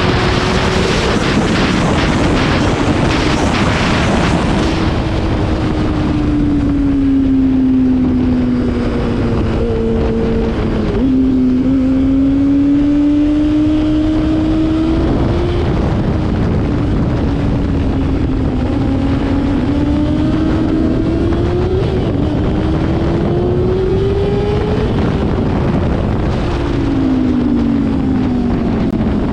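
Motorcycle engine at speed on a race track, its pitch rising and falling with throttle and gear changes, under heavy wind rush on the microphone. The pitch falls near the end as the bike slows.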